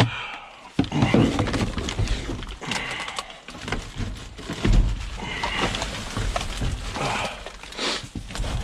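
Rummaging through trash in a dumpster: bags rustling and items knocking and clunking together in irregular bursts.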